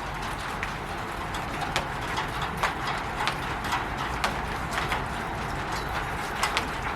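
Steady rain falling on a roof, with irregular louder drops tapping sharply through the hiss.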